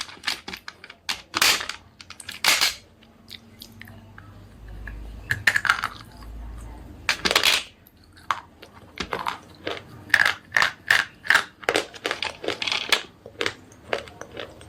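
Slate pencils being bitten and chewed: a series of sharp, brittle crunches, irregular at first and then a quicker run of about two to three a second in the second half.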